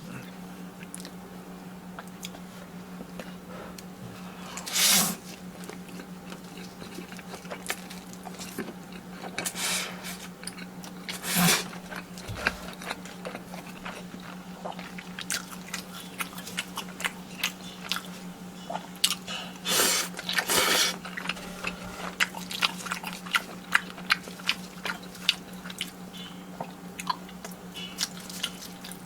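Close-miked eating of Carbo Buldak fire noodles and cheese sticks: steady wet chewing with many small clicks, broken by a few louder, half-second noisy bursts about 5, 10, 11 and 20 seconds in.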